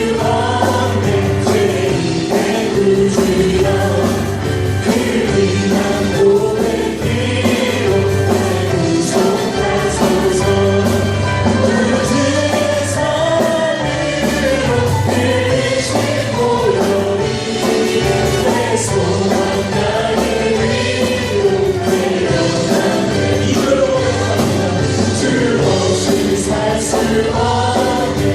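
A church praise team singing a gospel worship song together as a group, over instrumental accompaniment with a steady bass line.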